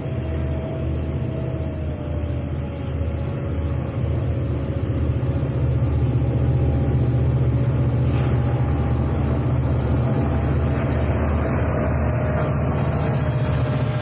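Diesel-electric locomotives of a Southern Pacific freight working under power as they crest a grade: a heavy, low engine drone with a thin steady whine above it, growing louder about four seconds in as the train comes closer.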